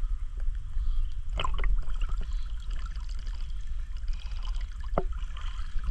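Riverside ambience: a steady low rumble under a faint hiss of flowing river water, with a few light knocks about a second and a half in and again near the end.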